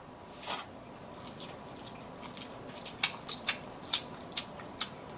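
Close-miked mouth sounds of someone eating spicy noodles. There is a short noisy burst about half a second in, then a run of wet clicks and smacks from chewing, starting about three seconds in.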